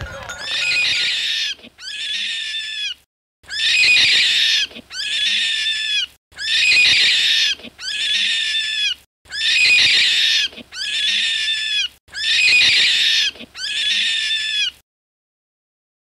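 Rabbit squeaking: five pairs of high, raspy squeaks, each about a second long, the second of each pair softer than the first, stopping about a second before the end.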